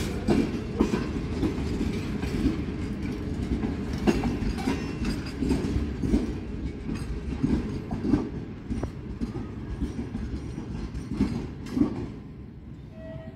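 Passenger coaches rolling past on the track, their wheels clicking and knocking irregularly over rail joints over a low rumble. The sound fades near the end as the train pulls away.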